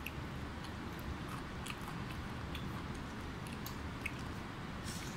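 People chewing toast sandwiches, with scattered short clicks over a steady low room rumble.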